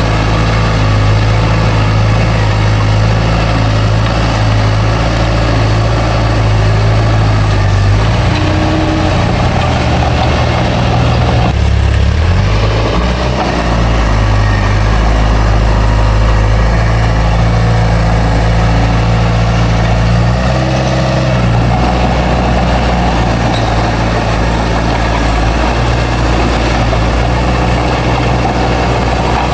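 Bulldozer's heavy diesel engine running loud and steady at a low, even pitch, its note shifting briefly about 8 seconds in, again around 12 seconds and near 20 seconds.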